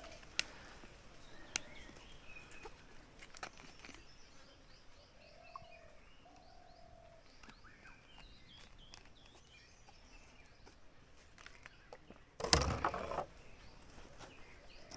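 Forest birds calling: short chirps and whistled calls, some gliding, scattered through, with a few sharp clicks and one loud, brief burst of noise about twelve seconds in.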